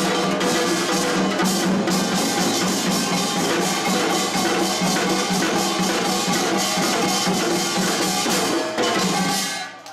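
Korean pungmul folk percussion ensemble playing a dense, driving rhythm over steady held tones. It breaks off just before the end.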